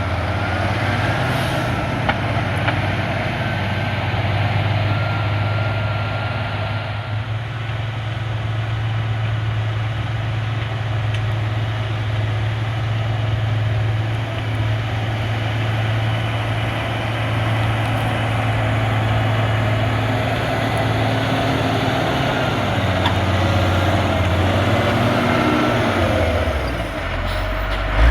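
Caterpillar 140G motor grader's six-cylinder diesel engine running steadily while grading, with the engine note shifting a little near the end.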